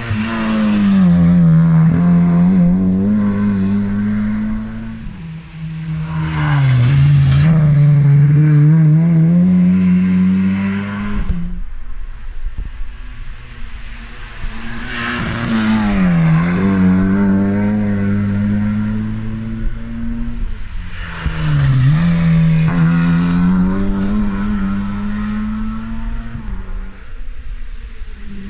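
Rally cars driven hard on a stage through serpentine corners. The engine note is loud and held high, dropping sharply and climbing again several times, with a quieter lull about twelve seconds in.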